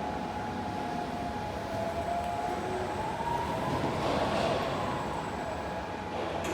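Still FM-X 10 electric reach truck running, its motors whining in a few tones that slowly rise and fall, with a swell of hiss about four seconds in.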